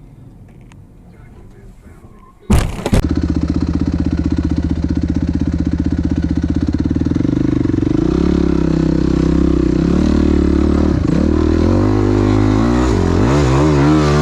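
A vehicle engine running loudly, cutting in abruptly about two and a half seconds in. Its pitch steps and dips a few times, then rises and falls several times near the end as it revs.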